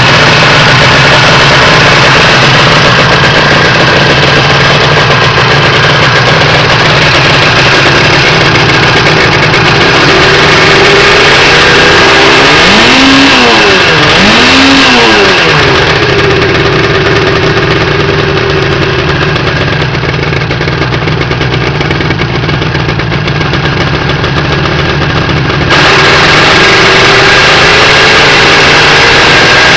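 A homemade motorcycle's engine running steadily and very loud, revved up and let back down twice in quick succession about halfway through.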